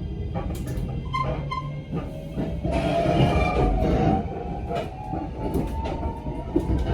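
Electric train accelerating: a motor whine rising steadily in pitch over a rumble, with the clicks and knocks of wheels over the rail joints.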